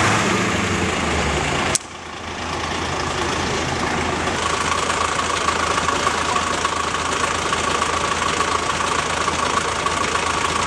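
Steady engine hum that breaks off abruptly about two seconds in, followed by steady background noise with a thin high tone running through it.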